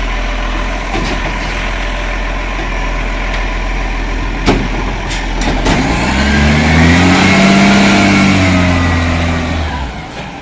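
Garbage truck engine running under a steady low rumble, then swelling loud for a few seconds from about six seconds in, its pitch rising and then falling before it drops away. A single sharp click sounds midway.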